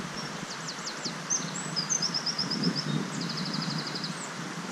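A small songbird singing three quick, high trilled phrases, the last a rapid even trill, over steady outdoor background noise, with a low rustle about halfway through.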